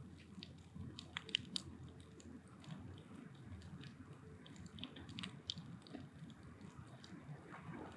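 Firewood burning in a steel drum-can bonfire, crackling with scattered small pops over a low rumble of flame. Sharper snaps come about a second and a half in and again about five seconds in.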